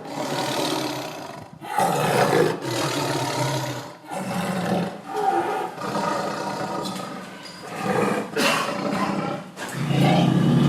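Animal roar sound effects: a run of about five long, rough roars, each one to four seconds long, following one another with only brief breaks.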